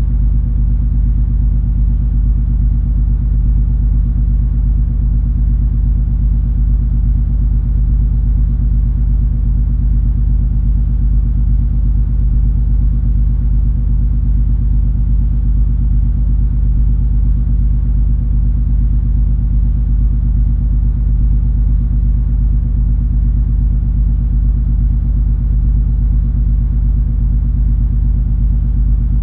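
Cruise ferry's engines and hull under way, a steady deep rumble with a low droning hum of several steady tones.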